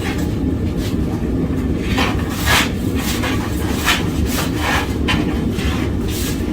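Propane forge burner running with a steady low rumble, with a series of short scraping strokes of metal being worked from about two seconds in, after a forge weld that has not stuck.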